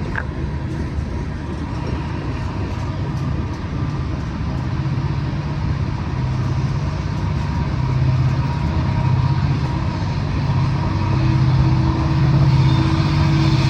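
Long freight train passing, a steady rumble with a low hum that grows louder over the last few seconds.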